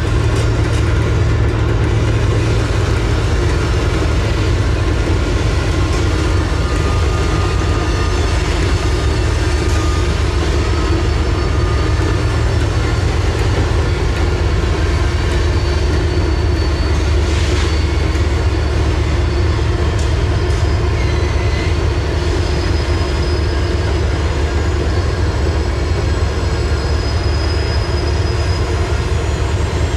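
Diesel-hauled freight train moving along the track: a steady, loud low drone from the locomotives and rolling cars, with faint thin high squeals from the wheels coming and going.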